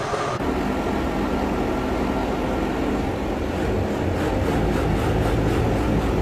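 Dump truck's engine running steadily with a low rumble, with a faint regular ticking in the second half.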